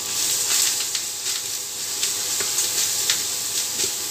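Ground spice paste and small fried anchovies sizzling in hot oil in a wok, with frequent short clicks and scrapes as a wooden spatula stirs the paste around the pan.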